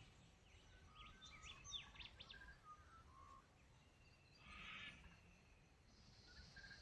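Several birds singing and calling: quick rising and falling whistles and short notes through the first two and a half seconds, then a harsher, rougher call about four and a half seconds in. The birds sound faint, over a low background rumble.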